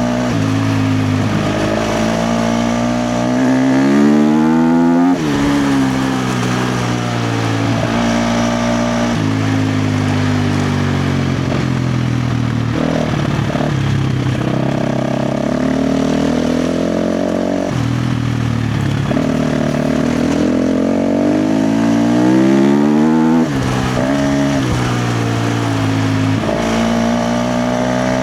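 KTM 350 XC-F's single-cylinder four-stroke engine revving hard under throttle while trail riding, the pitch climbing through the gears and falling back when the throttle closes. Two long pulls climb to a high rev about five seconds in and near the end, each cutting off sharply.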